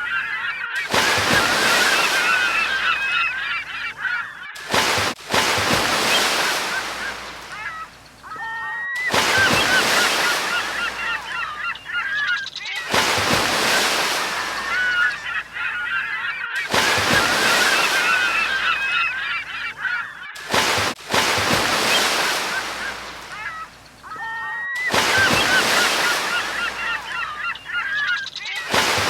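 Gulls calling over the hiss of breaking waves, their squealing cries repeating again and again. The sound stops and restarts abruptly about every four seconds, like a short loop.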